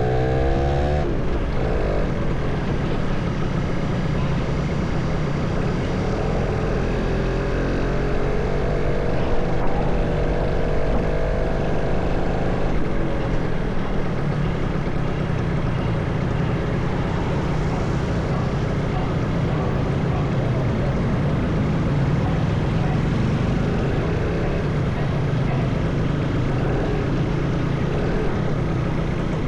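Motorcycle engine running under way, with steady wind and road noise. The engine's pitch shifts briefly near the start and again about a third of the way in.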